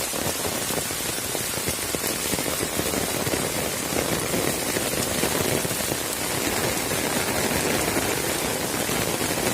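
Heavy rain pouring down steadily, a dense even patter of drops hitting surfaces.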